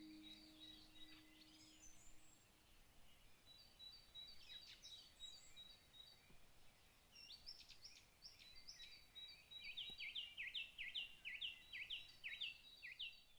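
Faint songbirds chirping with scattered high notes, then a quicker run of repeated sweeping notes, about three a second, near the end.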